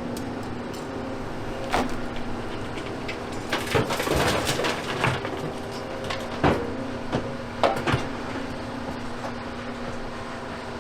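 Hydraulic excavator's diesel engine running with a steady hum, broken by sharp knocks and clattering of demolition rubble. The loudest stretch is a dense clatter a few seconds in, and there are single knocks a little after two seconds and around six and eight seconds.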